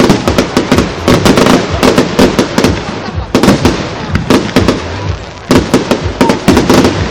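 Fireworks going off in dense volleys: rapid bangs and crackles, many per second.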